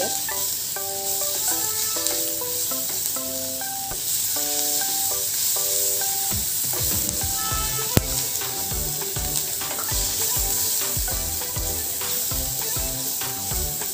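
Sliced onions and ginger-garlic paste sizzling in hot oil in a kadhai while they are stirred with a wooden spatula, with scraping knocks in the second half and one sharp tap about eight seconds in. Light background music of single held notes plays underneath.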